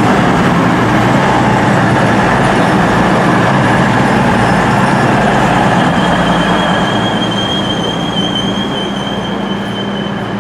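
Class 221 Super Voyager diesel-electric multiple unit running into the platform with a steady loud rumble and engine hum. A thin high squeal from the wheels or brakes comes in about six seconds in and holds as the train slows and the sound eases.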